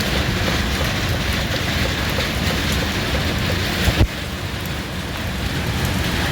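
Heavy rain and hail pelting down steadily, with a single sharp knock about four seconds in.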